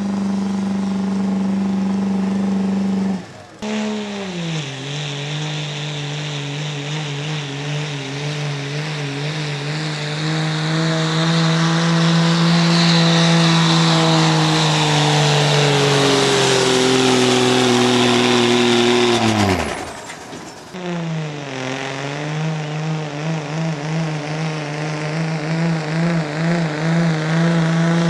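Engine of a pulling vehicle running hard under load as it drags the sled. Its pitch wavers and slowly sags as it bogs down. The sound breaks off briefly about three seconds in and again near twenty seconds, where the pitch plunges just before the break, then picks up again with a wavering note.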